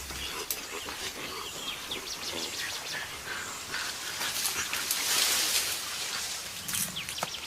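Forest field sound: rustling and crackling of vegetation with a louder rustle about five seconds in, and scattered animal calls.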